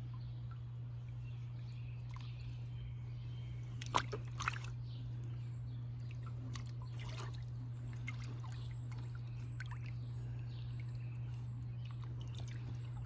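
Water sloshing and splashing faintly in a plastic wading pool as a dog plays in it, with two sharper splashes about four seconds in, over a steady low hum.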